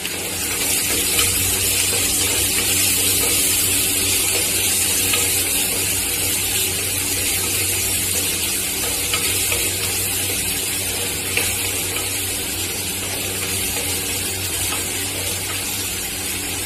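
Chopped shallots and green chillies sizzling steadily as they fry in oil in a clay pot, stirred now and then with a spoon; the sizzle grows a little louder about half a second in. A steady low hum runs underneath.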